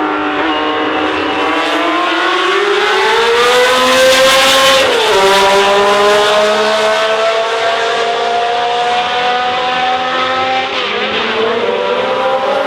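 Racing car engine at full throttle, its note climbing steadily through the revs, with a sharp drop on an upshift about five seconds in and another near the end, each followed by a new climb.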